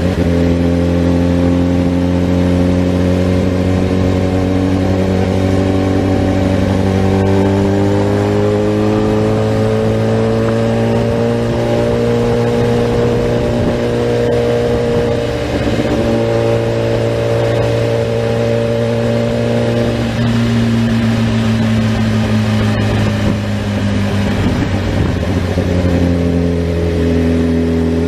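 Motorcycle engine running at fairly steady revs, its note drifting up and down only slightly. The pitch drops a little about two-thirds of the way through and settles lower near the end.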